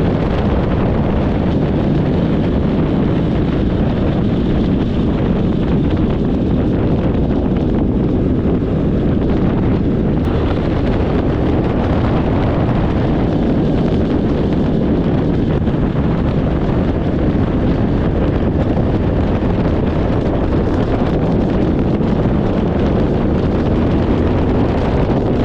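Steady wind rush over the microphone of a motorcycle riding at road speed, with the bike's running noise underneath.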